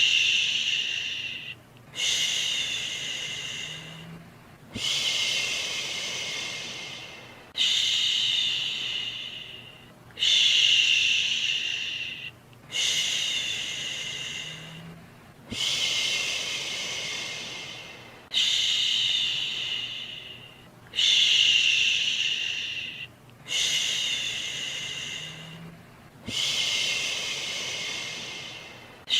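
Human 'shhhh' shushing sound for soothing a baby, repeated about every two and a half seconds. Each shush starts sharply and fades away before the next.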